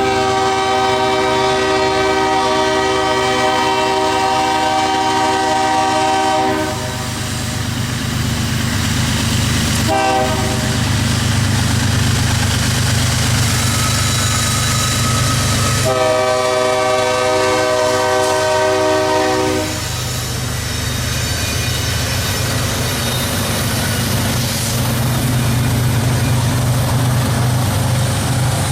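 Diesel locomotive horn: a long blast of about six and a half seconds, a short toot about ten seconds in, then another long blast of nearly four seconds. Under it runs the steady low rumble of the locomotive and train going by.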